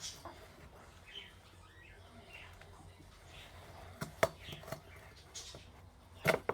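Faint scraping and rubbing with a few short squeaks, broken by sharp clicks or knocks: three in quick succession about four seconds in and a louder one near the end.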